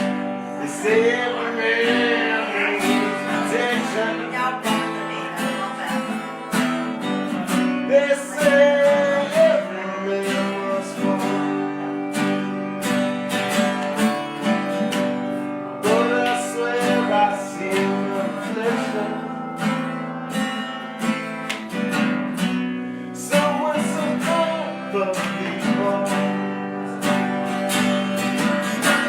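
Acoustic guitar strummed live in a steady rhythm, with a melody line rising over the chords now and then.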